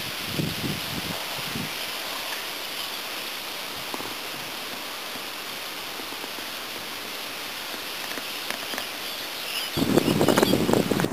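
Steady outdoor hiss with a few faint chirps near the end, then a louder low rumble comes in in the last second or so.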